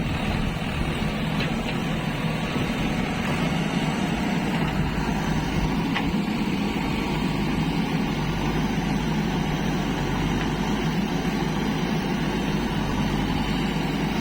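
Heavy diesel engine running steadily, with a faint clank about six seconds in.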